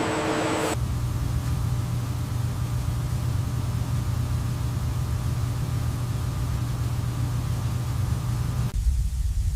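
A steady low machine hum that starts abruptly about a second in and changes suddenly to a deeper rumble near the end.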